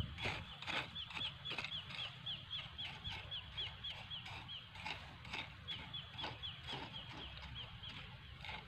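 A bird calling a fast series of short falling chirps, about three a second, over the scrapes and light knocks of a small hand hoe working dry soil between rice plants, the knocks busiest in the first second.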